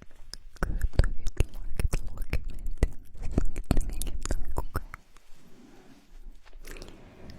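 Close-miked ASMR mouth sounds: quick, irregular wet clicks and smacks of lips and tongue, which give way about five seconds in to a quieter soft hiss.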